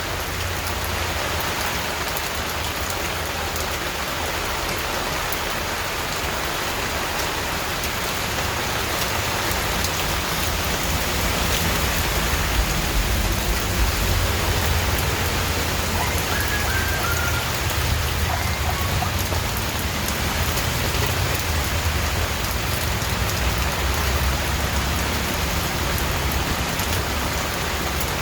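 Steady rain falling, with the close patter of raindrops hitting a surface over a continuous hiss. A deep rumble underneath grows a little louder through the middle.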